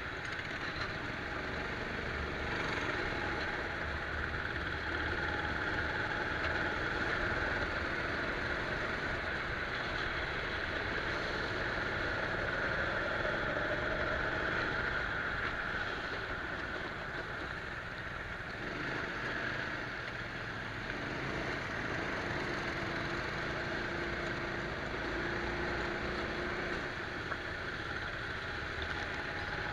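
Rental go-kart engine running on a lap of the track, heard from a camera mounted on the kart, its note rising and falling as the driver accelerates and lifts.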